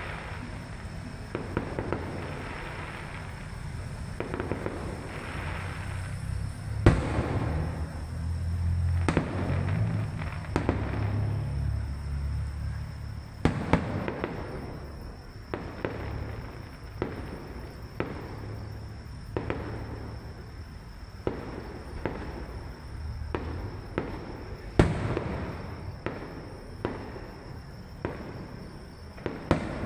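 Fireworks display: a steady run of bangs and booms with crackling between them, the loudest bangs about 7 and 25 seconds in, and a low rumble from about 7 to 13 seconds.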